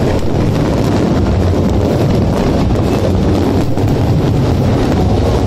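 Dense fireworks barrage heard as a continuous low rumble, the shell bursts running together with no single bang standing out, with wind noise on the phone's microphone.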